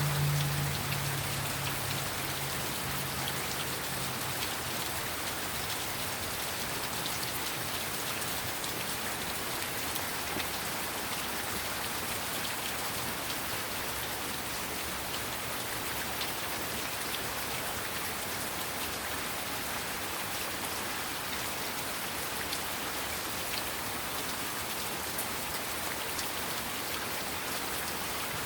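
Heavy rain falling steadily: a dense hiss of rain with many small drop ticks. A low hum fades out over the first few seconds.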